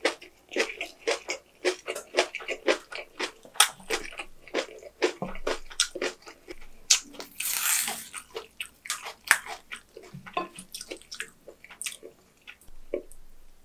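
Close-up eating sounds: crunchy, wet chewing of fresh napa cabbage kimchi and rice, a fast irregular run of crunches and smacks. About seven seconds in there is a brief louder wet rustle as the sauce-soaked kimchi leaves are torn and handled.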